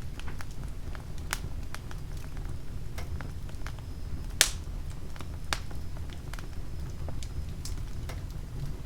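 Oak wood fire burning in a fireplace: a steady low rumble of flames with scattered sharp crackles and snaps, and one loud pop about four and a half seconds in.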